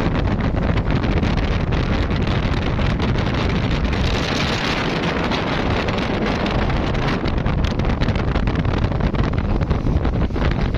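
Wind buffeting the microphone aboard a passenger speedboat running at speed, over a steady rush of water and engine noise. A hiss swells briefly about halfway through.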